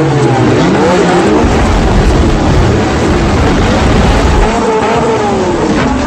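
Several car engines revving together, their pitches rising and falling over and over and overlapping, loud throughout.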